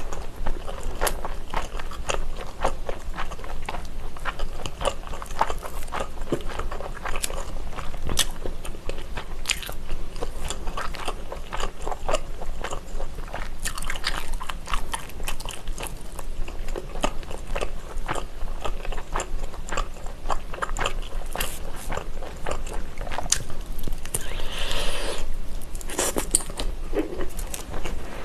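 Close-miked chewing of a sausage and rice-cake skewer (sotteok sotteok), with biting and many small crunchy, clicking mouth sounds throughout. A short rustling noise comes in near the end.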